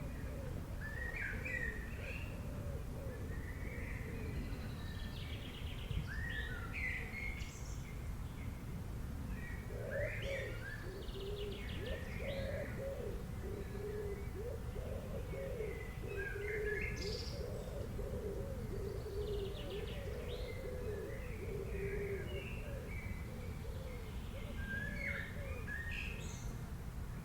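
Several birds chirping and calling, short high phrases repeating throughout, with a run of lower warbling calls in the middle, over a steady low background noise.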